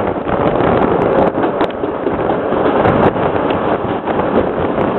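Bernina Express train running at speed: a steady rush of running noise and wind over the microphone, with a few brief clicks.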